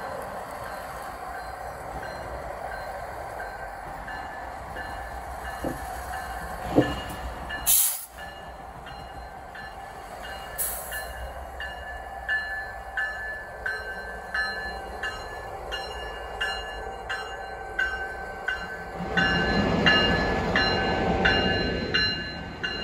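Terminal Railroad Association diesel locomotives rolling slowly past as the train backs up, with an engine rumble. There are sharp clanks about 8 and 11 seconds in, then a run of wheels clicking over rail joints with thin squeals, getting louder near the end.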